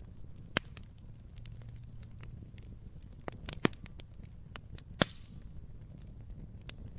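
Wood fire crackling over a low rumble, with scattered sharp pops; the loudest come about half a second in, three and a half seconds in and five seconds in.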